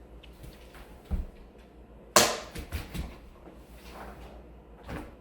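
A sharp clatter about two seconds in, then a few lighter knocks and clicks, as a dog's food and bowl are handled.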